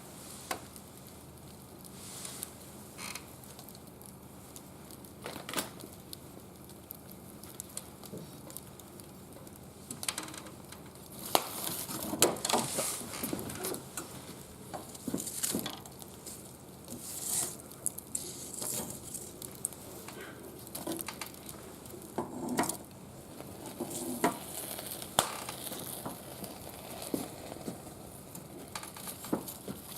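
Small wood fire burning in a metal barbecue grill, crackling with irregular sharp pops that come in denser bursts now and then.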